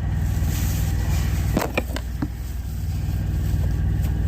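Truck engine idling with a steady low hum, with a few light clicks about one and a half to two seconds in.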